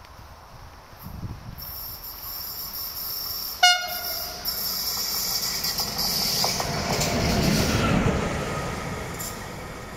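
A DB class 185 electric locomotive hauling a freight train gives one short horn blast a little under four seconds in. It then passes close by, and the noise of the locomotive and wheels on the rails builds to its loudest about eight seconds in before easing off.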